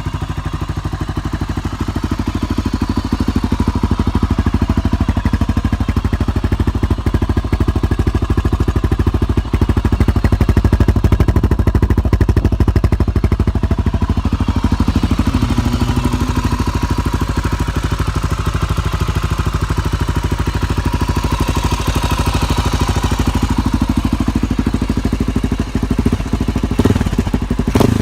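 Honda XR400's single-cylinder four-stroke engine running at idle through a CRD aftermarket exhaust, a steady thumping beat with small rises and falls in engine speed around the middle. A few sharp knocks near the end.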